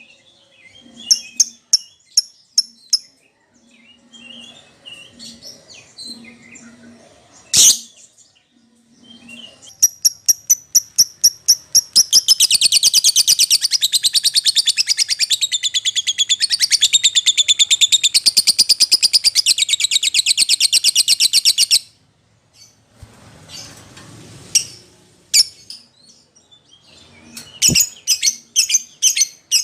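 Lovebird calling: sharp, high-pitched chirps, then a fast series of loud chirps that runs into one long, rapid chattering trill of about ten seconds, followed by scattered chirps again.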